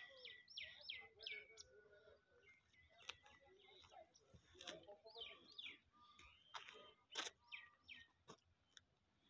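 A small bird calling faintly: runs of quick, downward-sliding chirps, the first right at the start and a second about five seconds in. A few sharp clicks are scattered through.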